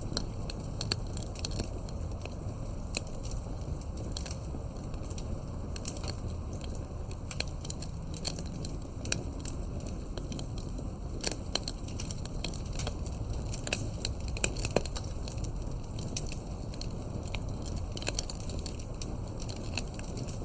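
Campfire burning, crackling with many small irregular snaps over a low steady rumble, and a few louder pops in the middle.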